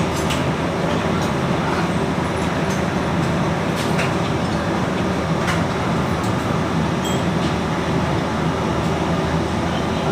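Steady mechanical drone of running machinery with a constant low hum, with a few light metallic clicks and ticks over it.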